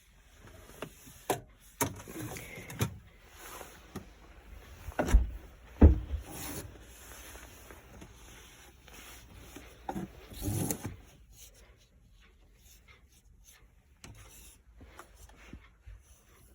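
Irregular knocks, clunks and rubbing, as of things being handled and shut, with two heavy thumps about five and six seconds in and a clatter near eleven seconds, quieter after that.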